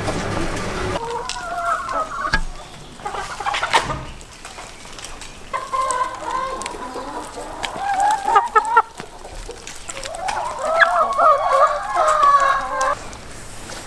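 Chickens calling, with a rooster crowing: three long, wavering crows of a couple of seconds each.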